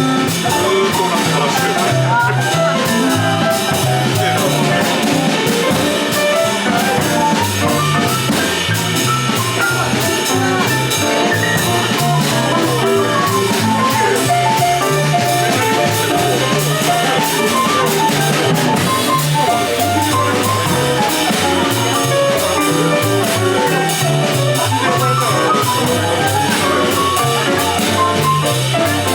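Small jazz group playing live: a moving bass line, drum kit with cymbals, and a melody instrument on top, without a break.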